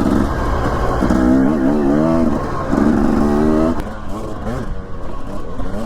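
Dirt bike engine running under throttle, its pitch climbing and falling in two strong pulls about a second in and near the three-second mark, then easing off, over a steady low rumble.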